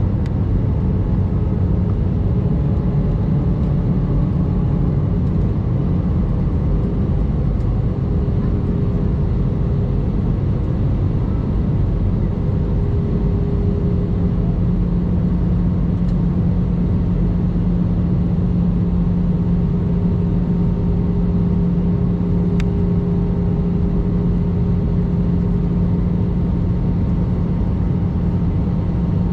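Airbus A319 jet engines and airflow: a loud, steady rumble with a low hum that grows stronger about halfway through.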